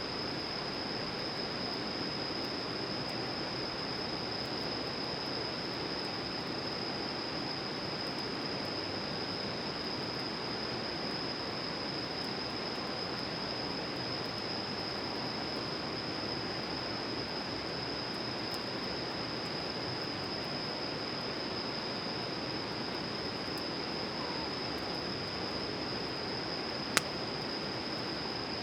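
Steady outdoor rushing noise, like flowing water, under a steady high buzzing note such as an insect chorus makes. One sharp pop sounds near the end, like a log popping in a campfire.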